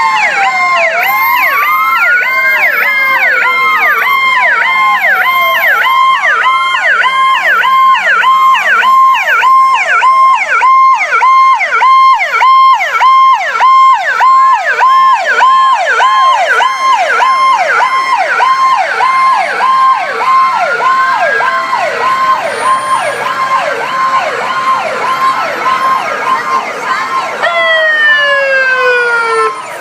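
Several emergency-vehicle sirens sound at once: a fast, evenly repeating yelp over slower wails that rise and fall out of step with each other. The mix shifts near the end.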